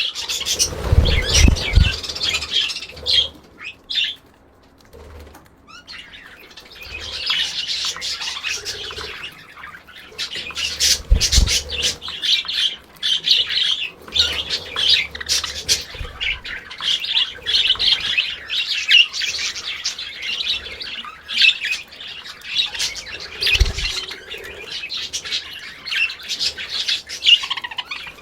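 Pet budgerigars chattering and chirping in quick, continuous warbles, with a brief lull about four seconds in and a few low thumps.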